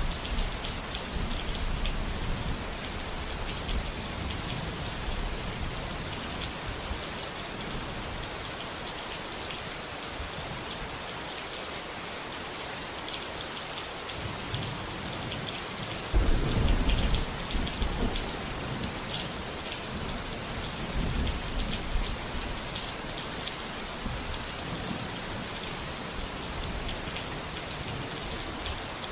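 Steady heavy rain falling, with a low rumble of thunder about 16 seconds in and another dying away at the start.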